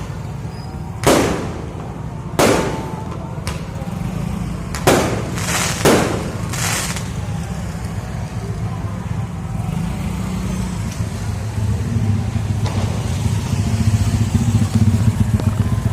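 Fireworks going off: about five sharp bangs with echoing tails in the first seven seconds, one with a brief hiss after it. After the bangs a steady low rumble grows louder.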